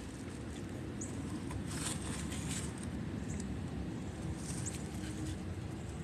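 Wind rumbling on a handheld phone's microphone, with brief rustles and two faint, short high chirps.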